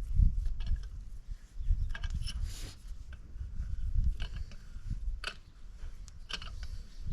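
Metal hand tools and small valve parts clicking and scraping on an ATV cylinder head during valve removal with a valve spring compressor, as irregular sharp clicks over low handling rumble.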